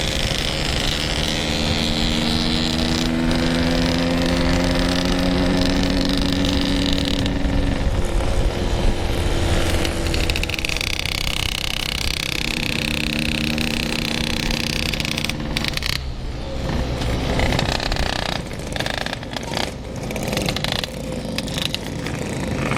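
Yamaha RX-King two-stroke motorcycle engine running under way, its pitch climbing as it accelerates through the gears, twice. Wind buffets the microphone; after about three quarters of the way through the engine drops back and the sound turns choppy with a few knocks.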